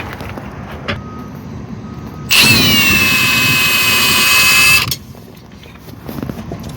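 An impact wrench runs in one burst of about two and a half seconds, spinning off a shock absorber mounting bolt; its whine drops in pitch as it starts and then holds steady before cutting off.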